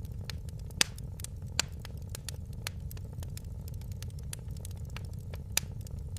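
Fire in a fireplace crackling: a steady low rumble of burning under frequent small snaps, with three sharper pops, just under a second in, about a second and a half in, and near the end.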